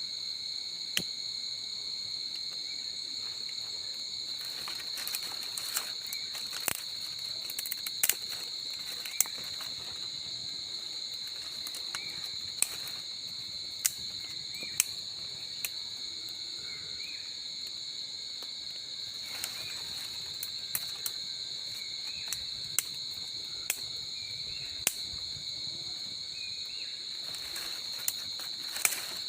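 Steady high-pitched trilling of crickets and other insects in chorus. Scattered sharp clicks break in about fifteen times, and faint short chirps come and go over the trilling.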